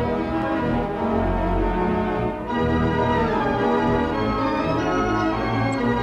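Wurlitzer theatre pipe organ playing full, sustained chords, with a brief break and change of chord about two and a half seconds in.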